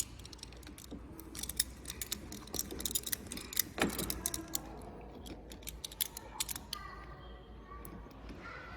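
Small metal parts and tools clinking and clicking as they are handled, in a quick irregular series with one heavier knock about four seconds in.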